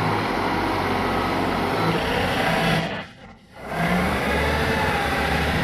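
A vehicle engine running steadily under heavy noise, cutting out briefly about three seconds in and coming straight back.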